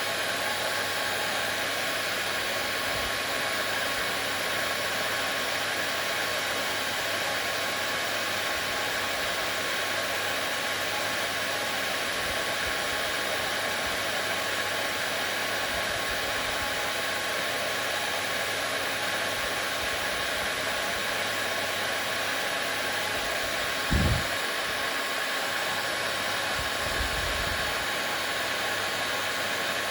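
Hair dryer running steadily: an even blowing noise with a faint steady whine. A brief low thump comes about three-quarters of the way through.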